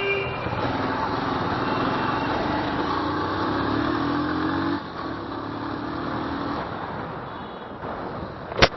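Motorcycle engine running under way, its note steady, then easing off about five seconds in. A single sharp click sounds near the end.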